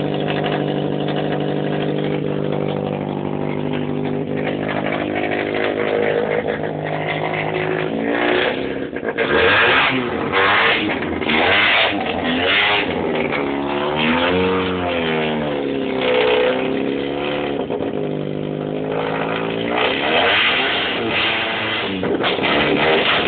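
Opel Manta engine heard at the tailpipe, idling steadily, then revved repeatedly: quick blips about once a second from about a third of the way in, one longer rise and fall around the middle, and more blips near the end.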